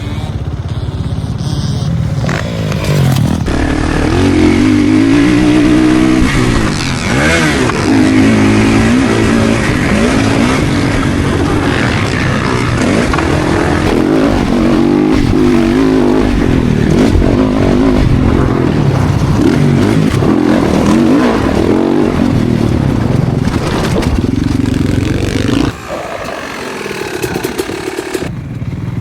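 Motocross bike engine revving hard as it is ridden, its pitch climbing and dropping again and again. The revs fall away near the end.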